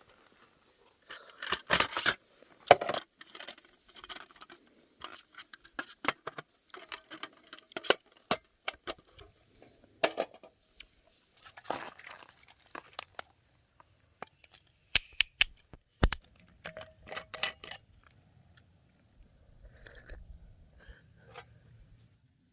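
Irregular close-up handling noise: rustling, crinkling and sharp clicks in scattered bursts with short quiet gaps between them.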